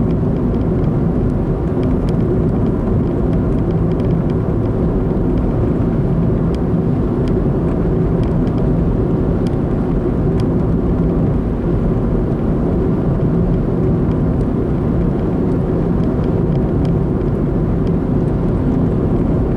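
Car driving along a town road: steady tyre and engine noise picked up inside the cabin.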